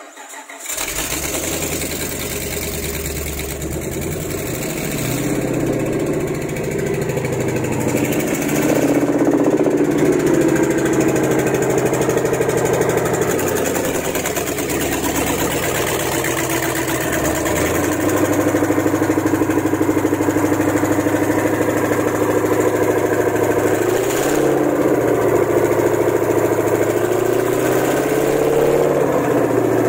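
5.7-litre HEMI V8 engine starting about a second in, then idling steadily.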